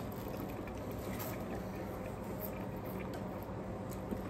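Faint chewing and wet mouth sounds of someone eating soft stuffed bread, with a few small clicks, over a steady low hum.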